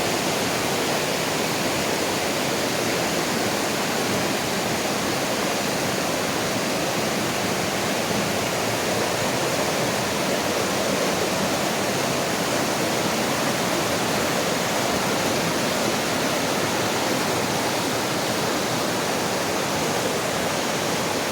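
A rain-swollen mountain creek rushing, a steady, even roar of fast water after heavy rain.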